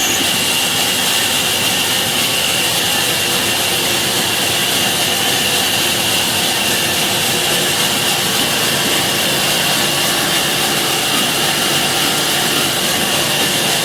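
Sawmill saw cutting steadily through a log, a continuous hissing whine with no breaks.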